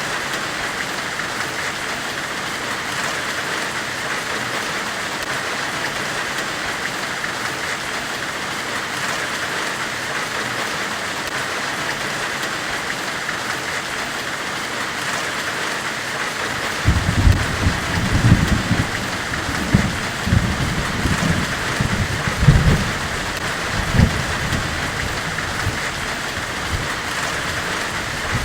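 Steady, even hissing white noise presented as a forge-weld hiss. A stretch of low, uneven rumbling surges lies under it for several seconds past the middle.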